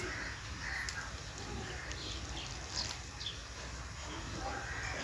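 Faint birds chirping in the background, a few short high calls, over a low steady hum.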